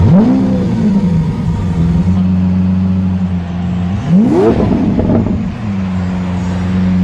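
A car engine revved twice, a short rise and fall at the start and a higher one about four seconds in, running at a steady hum in between.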